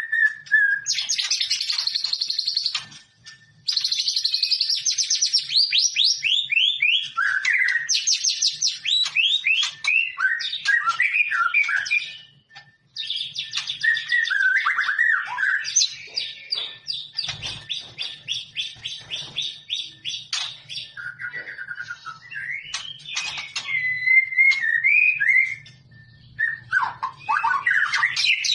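A songbird singing a long, varied song of rapid trills and whistled phrases, with short breaks about three seconds and about twelve seconds in.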